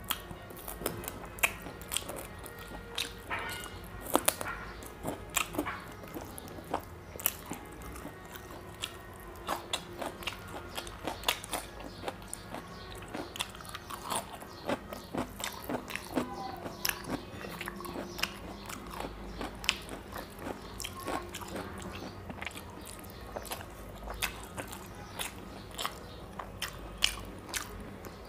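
Close-up mukbang eating: a man chewing and biting chicken leg pieces with rice and curry, eaten by hand, with many sharp, irregular wet mouth clicks and smacks.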